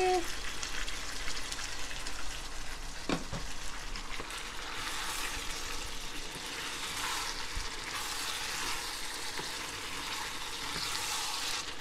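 Chicken pieces and spring onions sizzling in a hot pan while cooked tomato sauce is stirred through them with a wooden spatula. The sizzle is steady, with one sharp knock about three seconds in.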